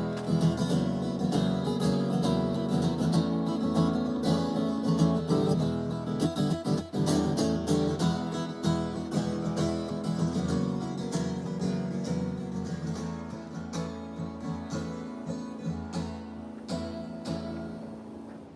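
Acoustic guitar strumming chords with no singing, slowly getting quieter and fading low near the end.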